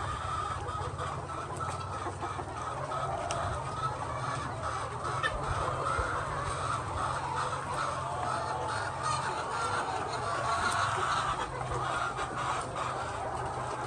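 A flock of chickens clucking continuously, many birds' calls overlapping, over a steady low hum, with scattered small clicks.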